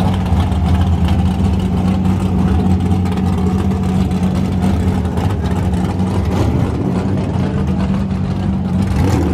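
Drag cars' engines idling in the staging lanes: a steady, loud low rumble with no revving.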